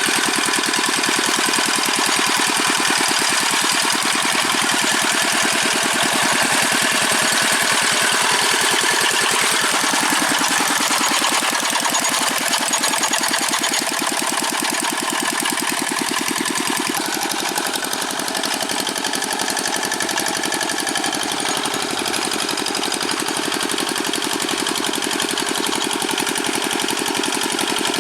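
Old Dongfeng single-cylinder diesel engine of a Quick G600 two-wheel hand tractor running steadily with a fast, even chugging beat. It gets slightly quieter about halfway through.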